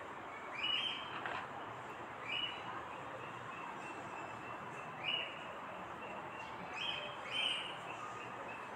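Small bird chirping outdoors: about five short, separate chirps spaced a second or two apart, over a faint steady background hiss.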